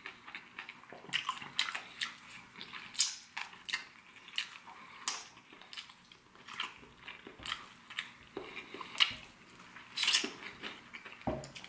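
Chewing and gnawing at a fried chicken drumstick bone: a run of irregular small crunches and mouth clicks.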